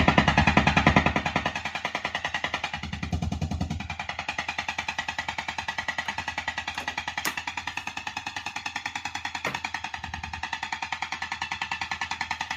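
Fender Deluxe Reverb guitar amplifier ticking through its speaker, a rapid, even run of several ticks a second: an unwanted fault noise that is still present. A louder low swell comes in the first second and again about three seconds in.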